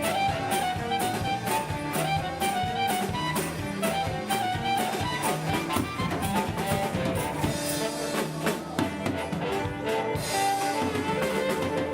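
A live band playing an instrumental passage: a drum kit keeps a steady beat under a melodic lead line.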